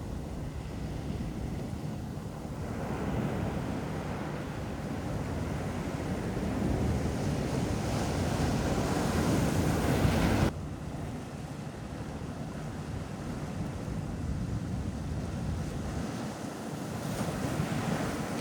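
Ocean surf washing onto a beach, with wind on the microphone. The wash swells for several seconds, drops off suddenly about ten seconds in, then carries on more quietly.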